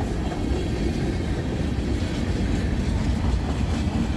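Freight train tank cars rolling past: a steady rumble and rattle of steel wheels on rail.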